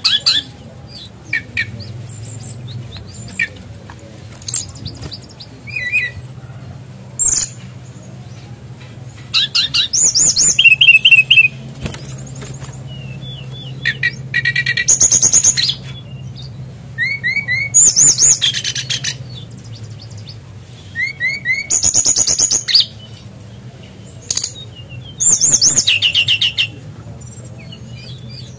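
A caged SRDC (sikatan rimba dada coklat) songbird singing: loud, high, trilling phrases of a second or two, repeated every few seconds with short chirps between them. Its song is filled with mimicked kingfisher (tengkek udang) calls. A faint steady hum lies underneath.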